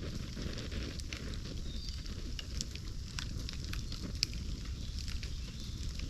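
Bonfire of cleared bamboo crackling, with scattered small pops over a steady low rush of flame and one sharper pop about four seconds in.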